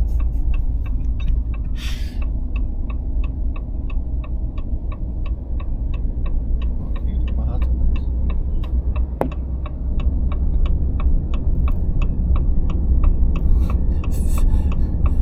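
Low, steady rumble of a running vehicle engine, with a light tick repeating evenly about three times a second over it.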